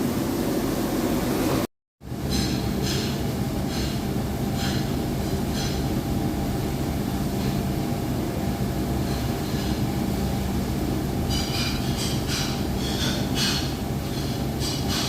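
Steady mechanical hum, with short hissing or clicking sounds coming and going over it, most of them about two to six seconds in and again near the end. The sound cuts out briefly about two seconds in.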